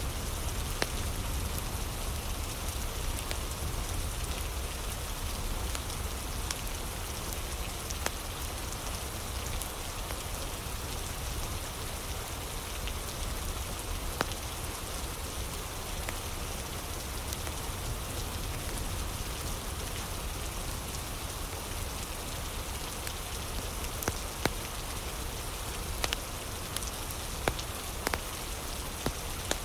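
Steady rain ambience with a handful of sharp pops from a crackling wood fire, several of them near the end.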